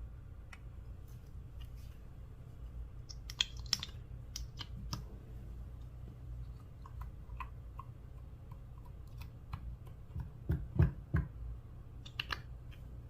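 Slime being handled: scattered small sticky clicks and pops, with a group of louder low thumps about ten seconds in, over a steady low hum.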